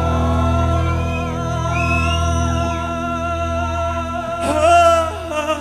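Live band music: a held chord over a steady low bass note, with a gliding, wavering melody line above it and a louder vocal passage near the end.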